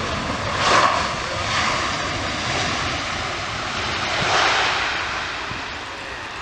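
Jet airliner engines producing a loud rushing roar that swells twice, about a second in and again about four seconds in.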